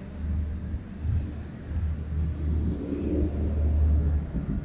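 Distant aerial fireworks shells bursting, heard as an uneven low rumble that swells and fades several times, loudest near the end.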